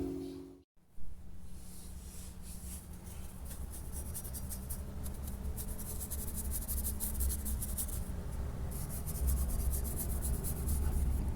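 Rapid scratchy rubbing strokes, many to the second, over a low rumble, starting about a second in after the music cuts out.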